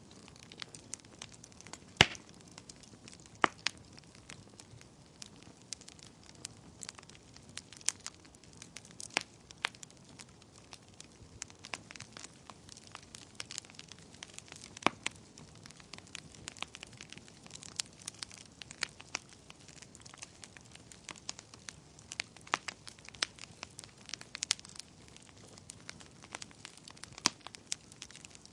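Wood fire burning in a fireplace, crackling with irregular sharp snaps and pops over a soft low hiss; the loudest pop comes about two seconds in.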